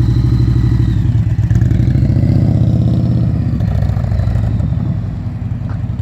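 Motorcycle engine running close by with a rapid, even pulsing; the pitch rises a little and then eases back.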